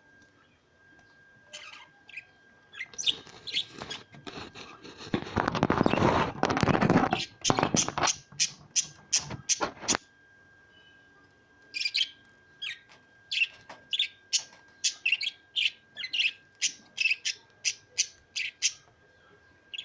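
Pet parrot giving runs of short, sharp, high calls, about two a second, with a loud rustling burst a little after a quarter of the way in.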